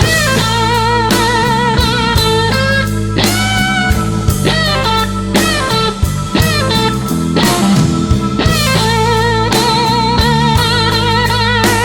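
Blues band playing an instrumental passage: an electric guitar solo with bent, wavering vibrato notes over bass and drums.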